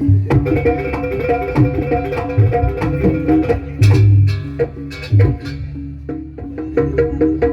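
Loud live traditional percussion music accompanying a dance: rapid drum strokes and quick pitched notes over a steady low drone. It thins briefly about six seconds in, then picks up again.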